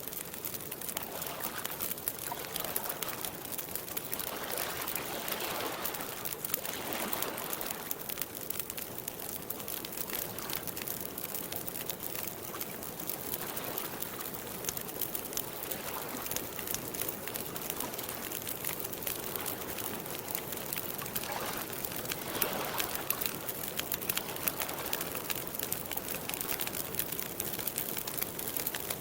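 Campfire crackling with many small pops, over lake water gently lapping in a few soft swelling washes.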